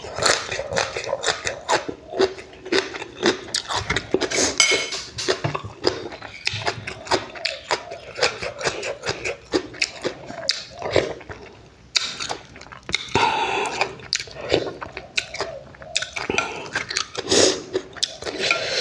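Close-up eating sounds: a person chewing with the mouth open, a steady irregular run of wet smacks and clicks, with a short pause about twelve seconds in.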